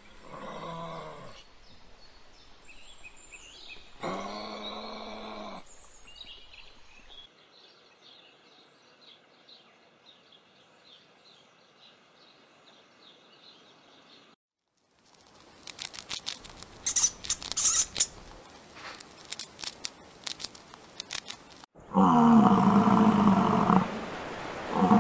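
A run of different animal calls, cut one after another: two short pitched calls, then several seconds of rapid repeated chirping, a stretch of clicking and rustling, and a loud drawn-out call near the end.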